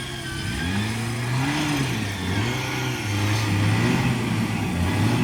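Off-road 4x4's engine revving, its pitch rising and falling several times.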